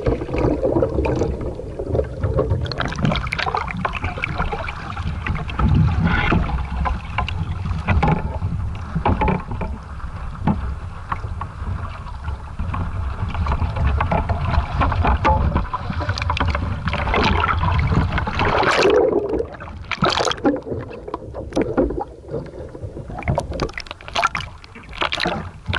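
Water splashing and slapping against a small sailing dinghy, with strong wind rumbling on the microphone in uneven gusts.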